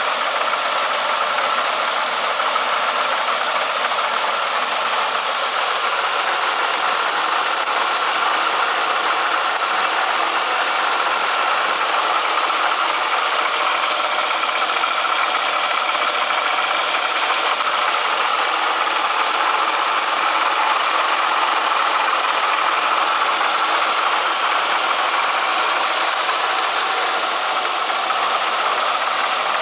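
Supercharged GM 3800 Series II V6 running steadily, with a rattle from its Eaton M90 supercharger that the owner suspects is a worn coupler or a failing rotor pack.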